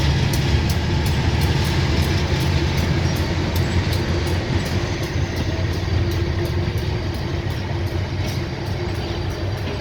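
Diesel locomotive hauling a passenger train past, its engine giving a steady low rumble over a fast, even ticking, fading slightly near the end.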